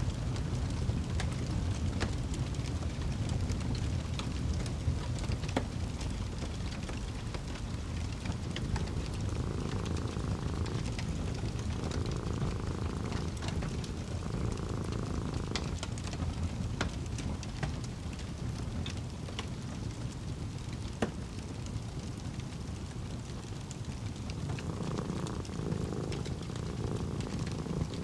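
A cat purring steadily over a wood fire crackling, with scattered sharp pops.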